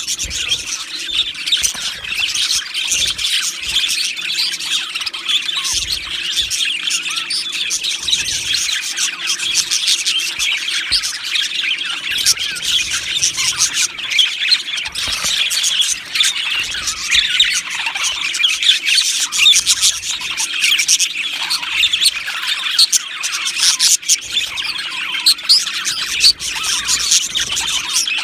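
A colony of budgerigars chattering, warbling and chirping together, many quick overlapping calls at once, without a break.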